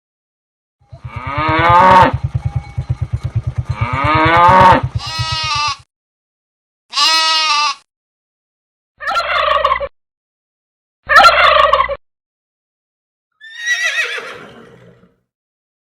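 A string of separate farm-animal calls with silence between them: two long calls over the first five seconds, then three short ones, and a last call that falls in pitch.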